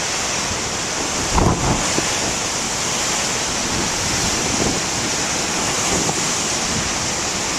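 Heavy ocean surf breaking and washing ashore in a steady rush, with wind buffeting the microphone.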